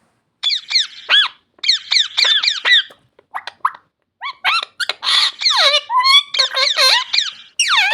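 Parrot giving a run of shrill squeaky calls: short notes that slide down in pitch, in quick clusters separated by brief pauses, busiest in the second half.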